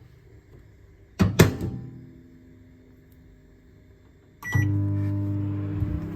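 Microwave oven: two sharp clacks about a second in, then about three seconds later a brief beep as the oven starts running with a steady hum.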